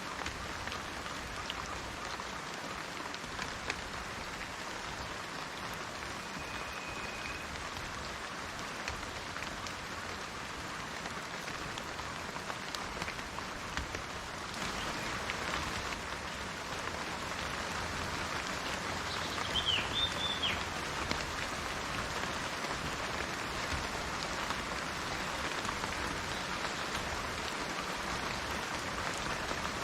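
Steady rain falling on garden foliage and trees: an even hiss of many drops with scattered individual drop ticks, a little heavier after about halfway. A brief high chirping call comes through about two-thirds of the way in.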